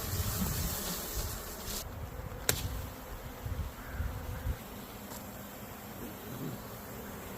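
Honey bee swarm buzzing steadily at close range, a low even hum. Low rumble on the microphone fades out about halfway through, and a single sharp click sounds about two and a half seconds in.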